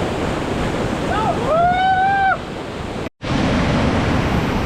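Steady loud rush of a waterfall's falling water. About a second and a half in, a person shouts one long held call over it. Around three seconds in, the sound cuts out for an instant and then returns.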